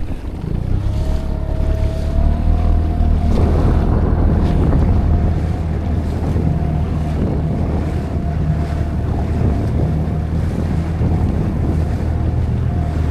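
Tohatsu outboard motor running steadily under way, a low even hum that picks up in the first two seconds and then holds, with wind buffeting the microphone.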